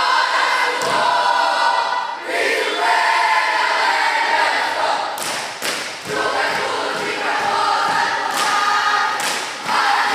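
A group of young voices singing or chanting together in unison, held notes with short breaks, cut by several sharp thumps.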